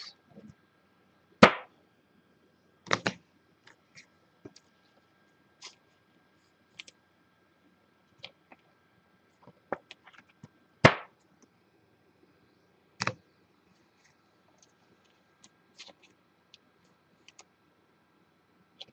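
Trading cards and their packaging being handled on a table: scattered sharp clicks and taps, with a few louder knocks.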